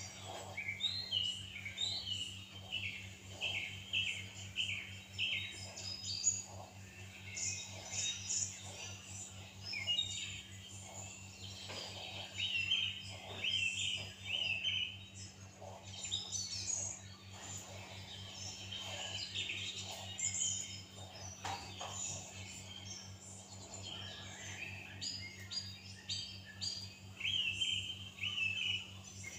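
Many small birds chirping and twittering in quick, overlapping short calls, over a steady low hum.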